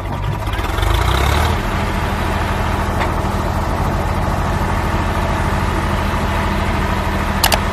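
Diesel engine idling steadily, a little louder for the first second and a half. Two sharp clicks come near the end.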